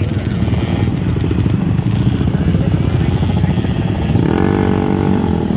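Dirt bike engine running hard on a track, a rough loud rattle. About four seconds in it settles into a steadier, more even engine note held at one pitch.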